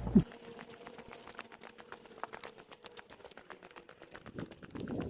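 Footsteps of a person walking, a quick run of light crunching ticks, with a faint steady hum behind them.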